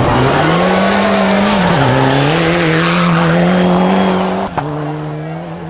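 Rally car engine at high revs on a gravel stage, the pitch climbing and then dropping sharply twice as it changes gear, with a hiss of tyres and gravel underneath.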